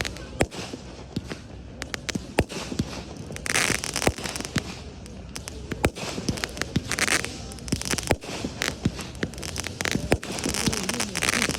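Fireworks display: a steady string of sharp bangs and cracks. About every three to four seconds there is a longer burst of dense crackle.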